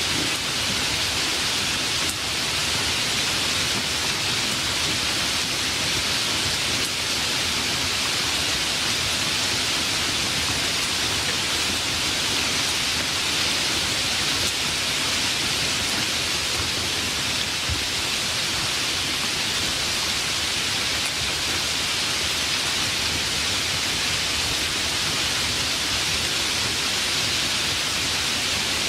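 Steady rainfall, an even hiss of rain that holds constant throughout.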